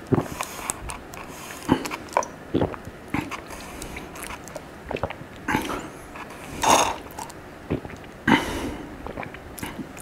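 Close-miked eating sounds: biting and chewing food with irregular wet mouth clicks, and two louder smacks about two-thirds of the way through.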